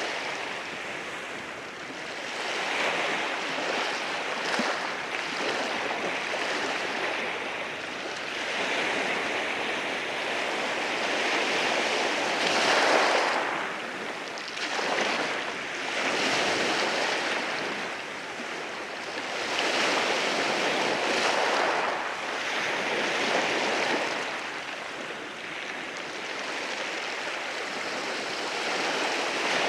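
Sea waves rolling in and washing over rocks, a steady rush of surf that swells and falls back every few seconds. The loudest surge comes about halfway through.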